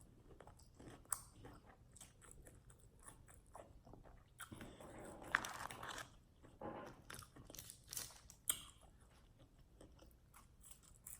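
Faint chewing and crunching of food close to the microphone, with many small mouth clicks and a few louder crunchy bites.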